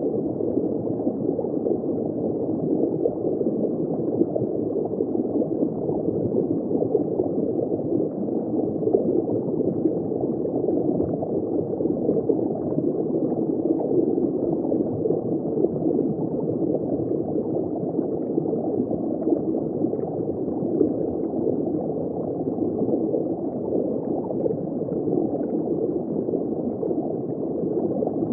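Underwater ambience heard through a hydrophone in shallow water: steady, dense bubbling and gurgling, muffled, with no high tones.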